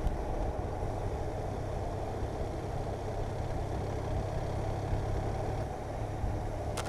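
Motorcycle engine and wind and road noise while cruising steadily, a constant low hum, with a sharp click just before the end.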